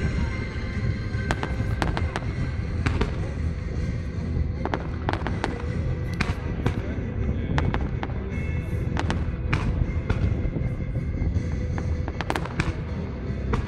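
Fireworks display: sharp bangs at irregular intervals, over music played through a sound system.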